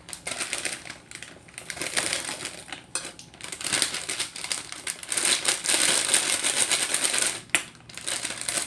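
Dense, rapid crackling and clicking close to the microphone, with short breaks about three seconds in and near the end.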